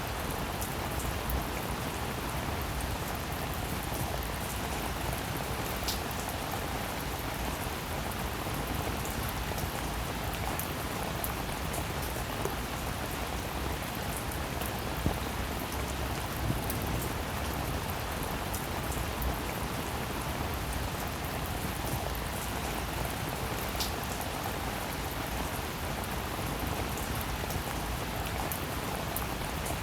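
Steady, even rainfall with scattered sharper drop ticks.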